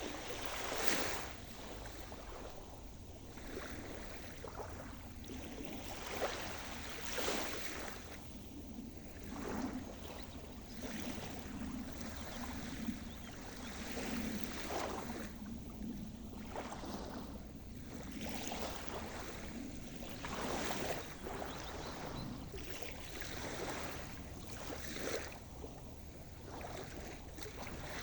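Sea surf: small waves washing in, with irregular splashing surges every one to three seconds over a steady wash.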